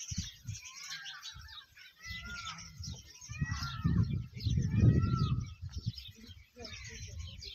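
Small birds chirping and calling throughout, with a louder, irregular low rumble from about two seconds in to six and a half, strongest near five seconds.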